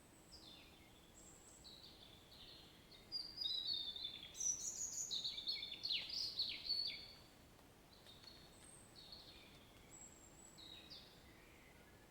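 Small birds chirping and calling in short, quick, downward-sweeping notes, with a louder, busier bout of rapid chirps between about three and seven seconds in, over a faint steady hiss.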